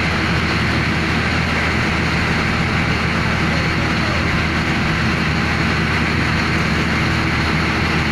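A large diesel engine running steadily at constant speed, a low even drone with a dense mechanical rumble over it.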